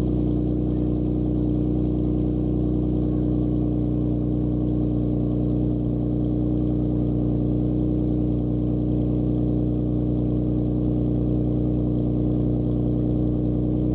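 Infiniti Q60's 3.0-litre twin-turbo V6 running steadily at idle through Boosted6 lower downpipes and an aFe 2.5-inch catback exhaust, holding one even note with no revs.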